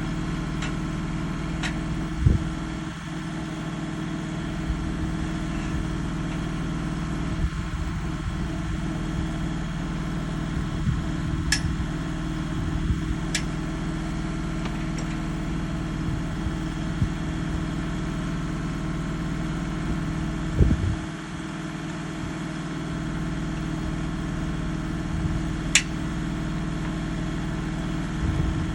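An engine running steadily at idle, with a few sharp clicks and knocks over it.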